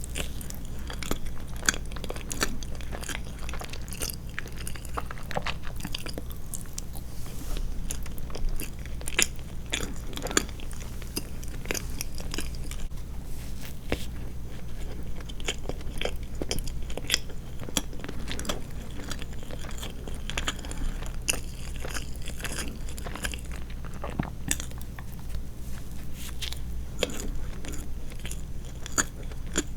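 Close-miked chewing and mouth sounds of a person eating soft sweets: a steady run of small wet clicks and smacks. A faint low steady hum sits underneath.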